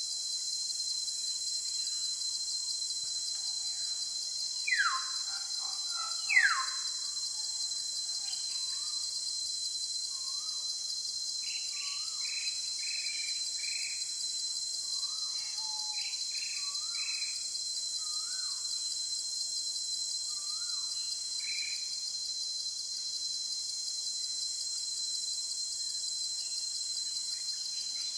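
A steady, high-pitched insect chorus of crickets or cicadas drones throughout. Over it a bird gives two loud, sharp calls that fall in pitch, about five and six seconds in. Then come series of short chirps and whistled notes for a stretch of about fifteen seconds.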